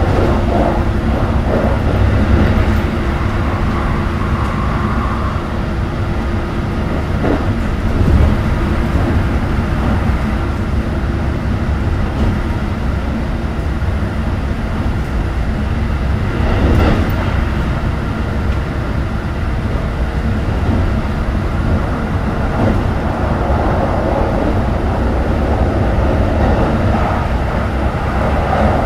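Keikyu New 1000 series (Siemens GTO inverter) train running between stations, heard inside the car: a steady rumble of wheels on rail with faint motor tones and a few short knocks from the track.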